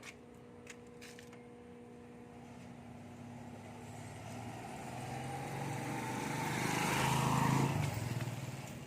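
A motor vehicle passing by: its engine grows louder over about four seconds, peaks near the end, then fades quickly. A faint steady hum runs underneath.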